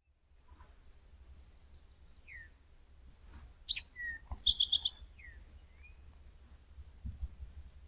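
Small songbirds chirping in woodland: scattered short downslurred notes, with a quick trill of about five notes about four and a half seconds in as the loudest sound. A steady low rumble runs underneath.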